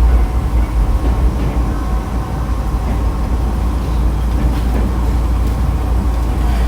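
Onboard running sound of a Nankai Kada Line electric train (set 2036F) nearing a station: a steady low rumble of wheels on rail, with a faint even whine and a few light rail-joint clicks.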